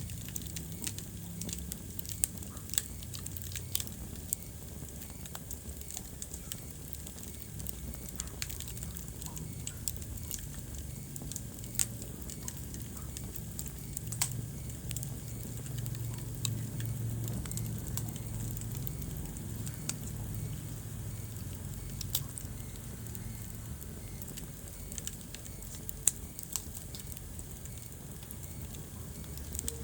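Wood fire burning in a fireplace: irregular crackles and sharp pops of burning logs over a steady low rumble of flame, with a few louder snaps.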